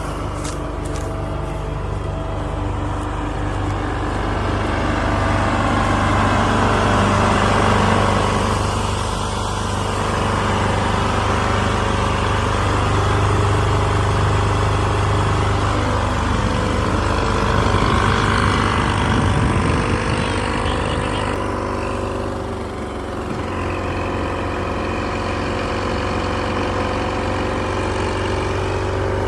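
Heavy farm machinery running steadily: a steady engine hum under a dense mechanical din from the working machine.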